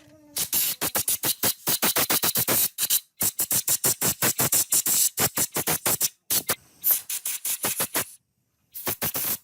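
Rapid back-and-forth scrubbing strokes of a hand tool on an engine part, about nine a second, in runs broken by short pauses.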